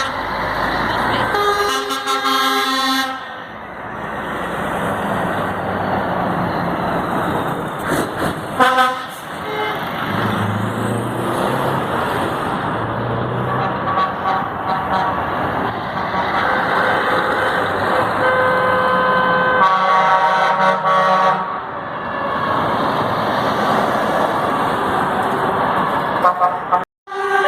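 Trucks running on the road with air horns sounding several times, each blast a chord of steady tones lasting a second or two.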